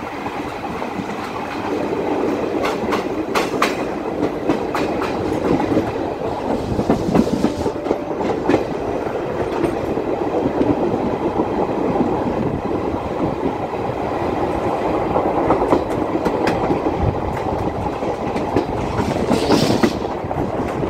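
Moving passenger train heard close beside its coach: a steady rumble of wheels on the rails, with clickety-clack and sharper clicks over rail joints here and there. It grows louder about two seconds in.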